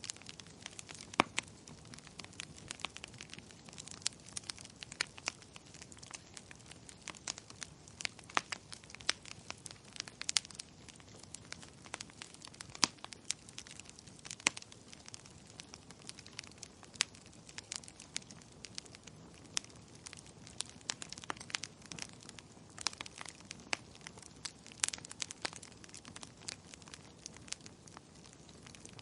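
Wood fire burning in a fireplace: irregular sharp crackles and pops over a soft steady hiss.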